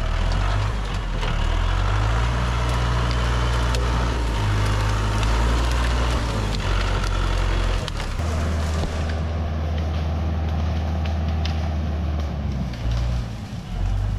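An engine running with a low steady drone, its note shifting about eight seconds in, with scattered cracks and clatters of wood throughout.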